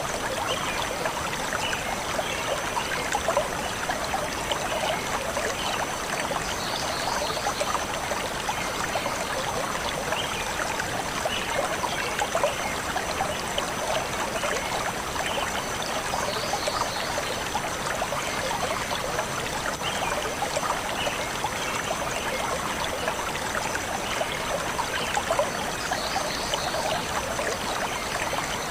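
Forest stream flowing steadily over rocks, a constant trickling and babbling. Faint short high chirps come back about every ten seconds.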